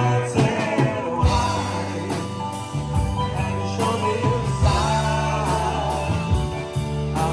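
Rock music with a singer and drums.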